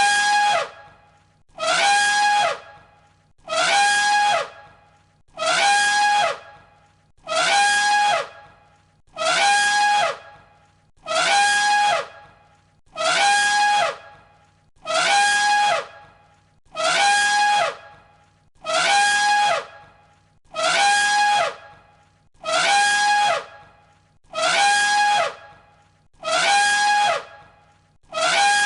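Elephant trumpeting, the same short blaring call repeated in an identical loop about every 1.7 seconds.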